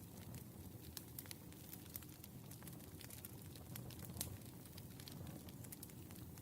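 Wood fire burning: a low steady rumble with frequent irregular crackles and pops, one louder pop about four seconds in.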